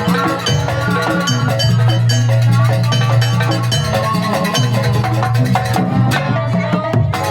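Live jaranan gamelan ensemble playing a sampak: drums and tuned metal percussion in a dense, fast, steady rhythm over a sustained low tone.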